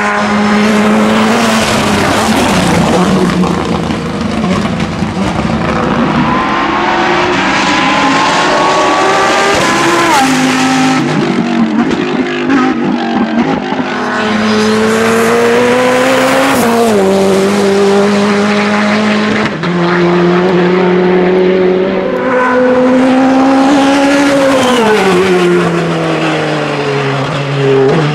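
Hillclimb race car engines running flat out. The engine note climbs through the revs and then drops sharply at each gear change, several times over, and near the end it falls away as the car slows, with some tyre noise.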